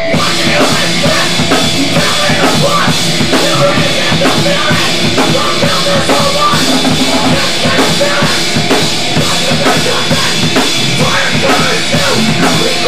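New York hardcore band playing live: loud distorted electric guitar, bass and a drum kit pounding out a fast, steady beat.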